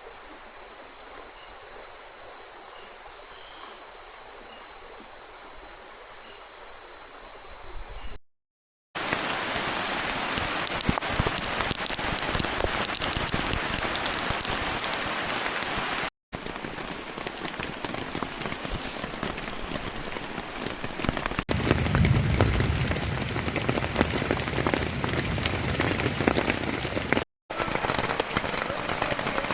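A steady high insect drone, then, after a cut, heavy rain pouring down as a dense, even hiss that lasts to the end. About two-thirds of the way through, a deeper rumble swells under the rain.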